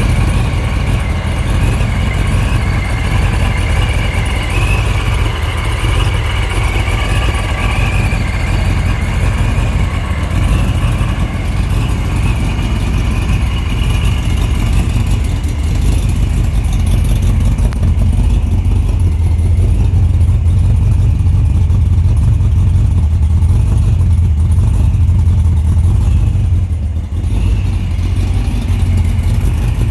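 Vortech-supercharged first-generation Ford SVT Lightning's 5.8-litre V8, with a custom camshaft and long-tube headers, idling with a steady deep exhaust rumble. A high wavering whine rides over it for the first half, and the rumble gets louder from a little past halfway.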